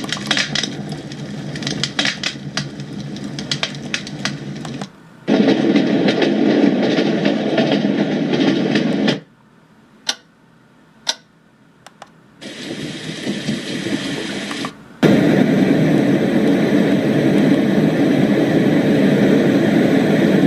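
RENPHO white noise machine playing its built-in sounds through its small speaker, switched from one to the next: first a crackling burning-fire sound, then steady noise tracks that change abruptly, with a break of a few seconds marked by a few clicks in the middle. The last and loudest is an even white noise.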